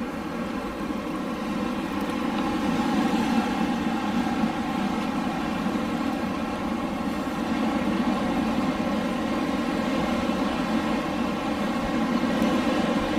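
Wind blowing in a steady, low rush that swells a little a few seconds in.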